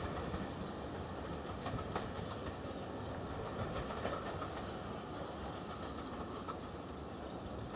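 Passenger train running away into the distance on jointed track, a steady rumble with occasional wheel clicks, slowly fading.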